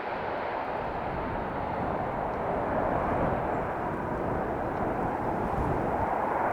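Aircraft engines running: a steady, even roar that gets a little louder about halfway through.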